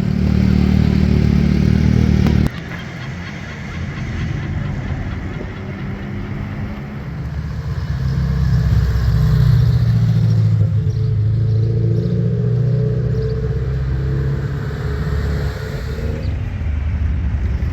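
Vehicle engines running, low and steady. The sound drops suddenly about two and a half seconds in and swells again around the middle.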